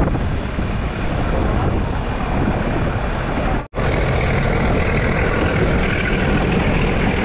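Wind buffeting a microphone held out of a moving Nilgiri Mountain Railway carriage window, over the steady running rumble of the train. The sound cuts out for a moment about halfway through, then carries on the same.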